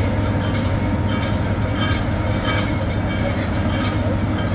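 Heavy road-construction machinery running steadily with a constant low engine hum, with a few short higher rattles about one, two and two and a half seconds in.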